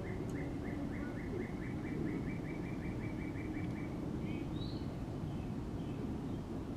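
A bird giving a rapid, even series of short chirps, about four or five a second, that stops a little past halfway, followed by a few higher chirps. A steady low outdoor rumble runs beneath.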